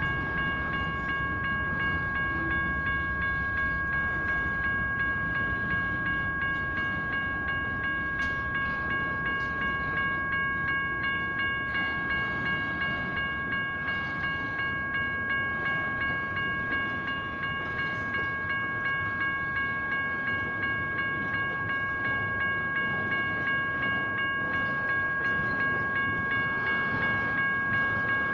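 General Signals Type 1 electronic crossing bell ringing steadily in an even, rapid ding, over the rumble of a train rolling through the crossing.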